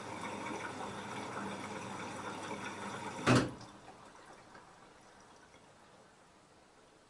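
LG F10A8HDS5 front-loading washing machine taking in water, a steady rush that stops with a sharp click about three seconds in, the inlet valve shutting off. Faint dripping follows.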